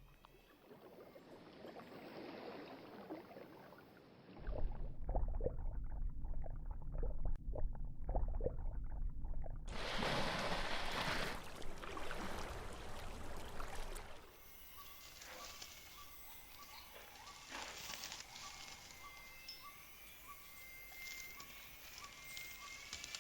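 Rainforest ambience made of several recordings cut together. It starts with rustling and a low rumble, then a rush of noise, and then quieter forest sound with an animal call repeating about twice a second and a few whistled bird-like glides.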